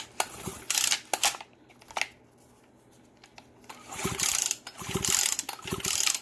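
Small two-stroke engine of a leaf blower being worked by hand to move its freshly oiled piston in the cylinder: scraping and ratcheting mechanical clicks, then three rasping strokes in quick succession near the end.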